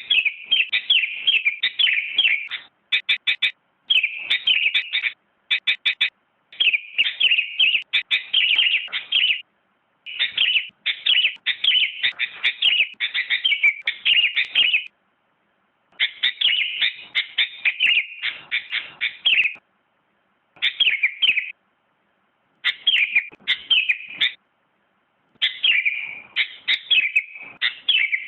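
Sooty-headed bulbul (kutilang) singing: phrases of quick, bright chirping notes, each one to several seconds long, separated by short pauses.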